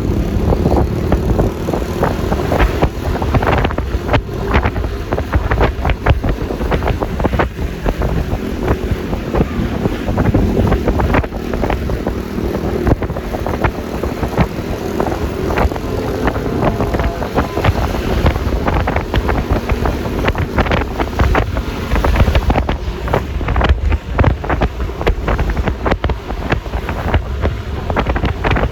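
Wind buffeting the microphone of a moving Yamaha Lexi LX 155 scooter, over steady engine and road noise, with frequent crackles from the wind.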